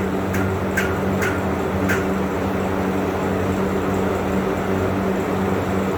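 Steady mechanical hum of a motor or fan, with a few short clicks or taps in the first two seconds.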